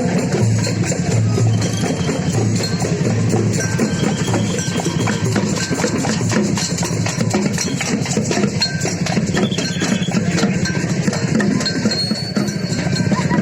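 Loud percussion music from a carnival parade, with a steady, repeating beat of drums and many sharp knocking strokes.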